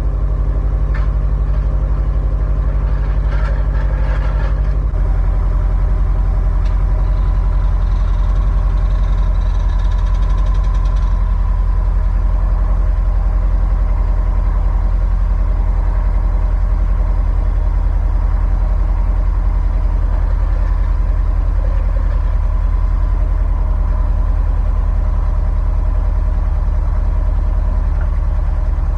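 Subaru WRX STI engine idling steadily through its newly installed exhaust, its low note changing slightly about five seconds in and again near the end. The owner judges it healthy, with only normal injector tick.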